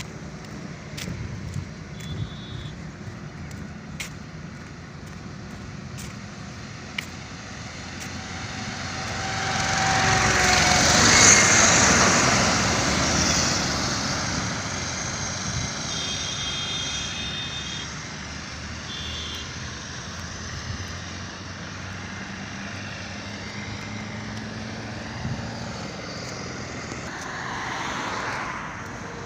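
Truck engine running steadily, with a loud rush of vehicle noise that swells about eight seconds in, peaks a few seconds later and fades away. Small clicks and a few brief high squeaks sound over it.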